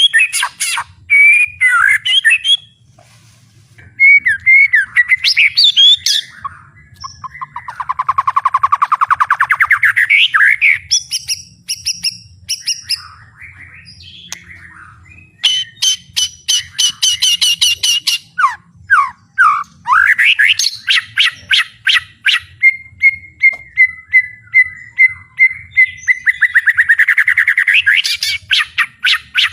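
White-rumped shama (murai batu) singing loudly, a varied song full of mimicked phrases: whistled notes and glides, fast trills and buzzy rattles, with a long held whistle near the end breaking into a rapid trill.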